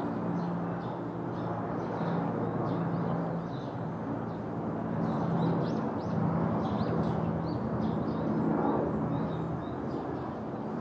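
Small birds chirping in many short, high notes over a noisy background and a low hum.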